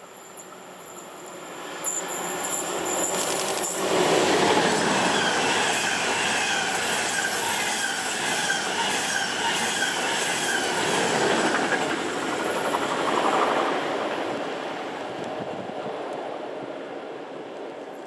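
A train passing close by on the rails: it builds from about two seconds in, goes loud suddenly a little later, then slowly fades away near the end. Through the loud part the wheels squeal with a high whine.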